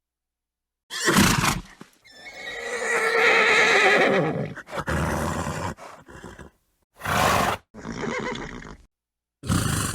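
A horse neighing: one long wavering whinny that falls in pitch at its end, between short breathy snorts, with dead silence between the separate sounds.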